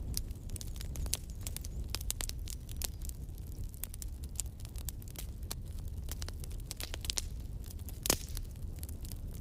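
Burning firewood crackling and popping in irregular sharp snaps over a steady low rumble, with one louder pop about eight seconds in.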